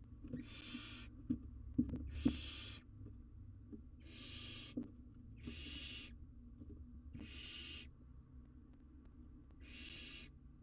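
Barn owl owlet giving a series of six drawn-out rasping hisses, each under a second long, one every second or two. A few faint knocks and scrapes sound between the first calls.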